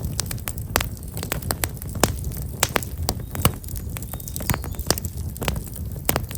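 Black locust firewood burning in a bonfire, crackling with irregular sharp pops over a steady low rumble of the flames.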